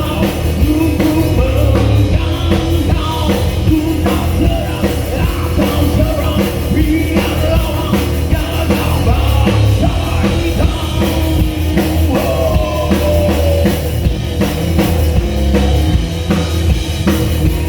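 Rock band playing live and loud over a PA system, with a drum kit keeping a steady beat under the guitars and a voice singing.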